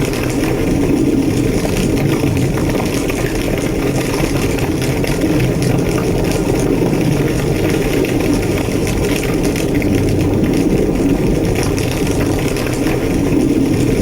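Large structure fire burning with a steady, strong low roar and scattered crackles.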